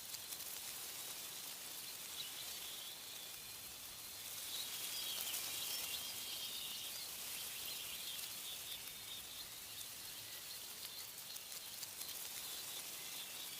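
Wind rustling through tree leaves as a steady hiss that swells about a third of the way in, with faint bird chirps.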